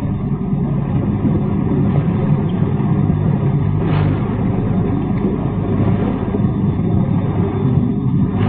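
The crowd of listeners at a live Quran recitation murmuring and calling out together in the pause between verses, heard on a muffled old recording with the highs cut off.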